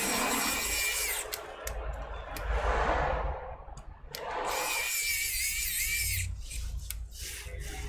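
Small electric screwdriver driving laptop case screws back in: two short runs of motor whine, the second wavering in pitch as the screw tightens, with clicks and scraping between.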